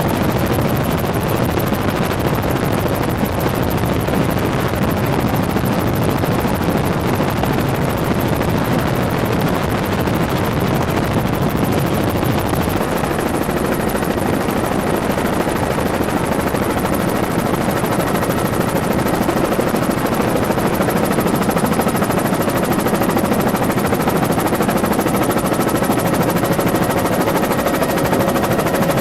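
Helicopter in flight: steady, loud engine and rotor noise, with a faint steady whine coming in about halfway through.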